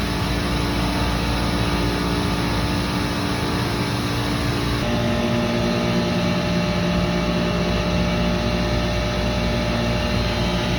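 Commercial chiller running with a steady hum of several tones, its circuit 1 compressor held on through a manually pushed-in contactor while it keeps tripping on low pressure. About five seconds in, the pitch of the hum shifts.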